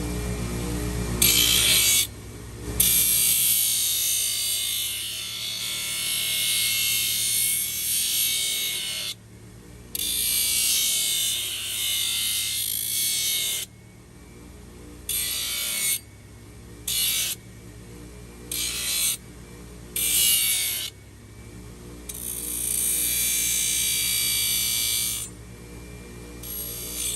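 A farrier's tool working a horse's hoof in harsh, hissy bursts that start and stop sharply every few seconds, over background music.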